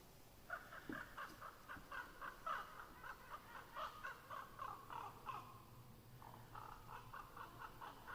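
A crow calling faintly in a rapid run of short, repeated caws, about three a second, pausing briefly about six seconds in before starting again.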